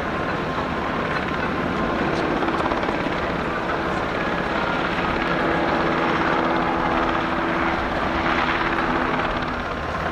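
Sikorsky UH-60J helicopter flying, its rotor and turbine engines running with a steady tone over dense rotor noise.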